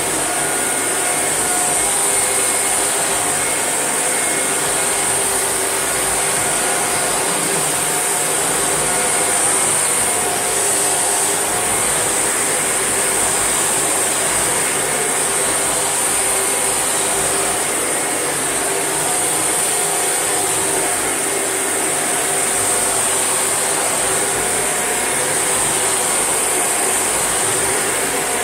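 Shark NV801UK upright vacuum cleaner running steadily: a continuous motor whine over a loud, high airflow hiss.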